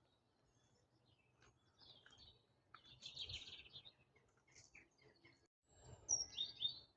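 Birds calling faintly in short bursts; the loudest comes near the end.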